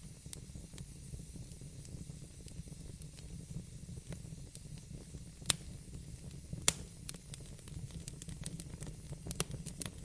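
Wood fire burning in a fireplace: a steady low rumble of flame with scattered crackles, two sharper pops about five and a half and six and a half seconds in, and a burst of small crackles near the end.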